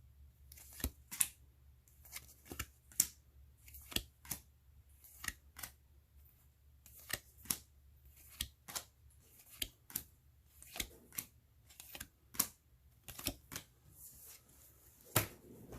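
Stiff game cards handled one after another: a string of short, crisp snaps and taps, irregular, about two a second.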